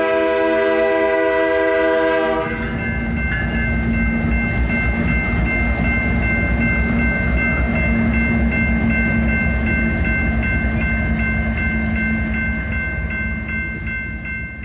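Amtrak P42DC diesel locomotive's air horn sounding a steady chord that cuts off about two and a half seconds in, followed by the Empire Builder passenger train rumbling past with a steady high ringing over it, fading away near the end.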